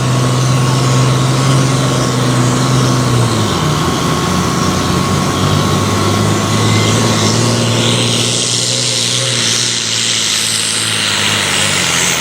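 Farm pulling tractor's engine running hard under load as it pulls the weight-transfer sled, its pitch dipping about three and a half seconds in. A hissing noise joins in about eight seconds in.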